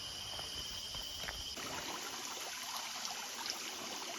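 Insects droning steadily on two high pitches over a low rumble. About a second and a half in, this changes abruptly to the even rush of flowing stream water.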